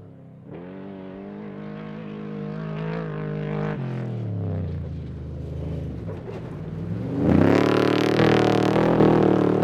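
Desert-racing trophy truck engine at speed: a steady drone that drops in pitch about four seconds in, then climbs sharply in pitch under full throttle and gets much louder over the last two seconds as the truck comes close.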